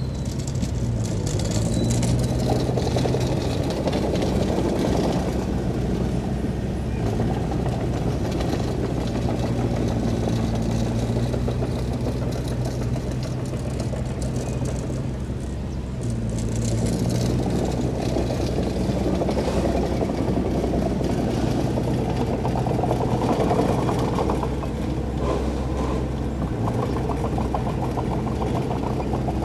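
Heavy diesel engine of earthmoving machinery running steadily, its note swelling and easing a few times as the load changes.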